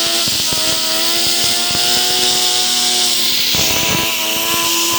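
Loud hiss of compressed air from an air-compressor nozzle blasting a fidget spinner at high speed. A steady whine that drifts slightly in pitch, with irregular rattling clicks, runs under the hiss.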